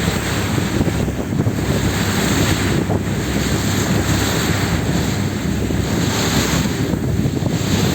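Wind buffeting the microphone: a steady, loud rumble of noise with no distinct events.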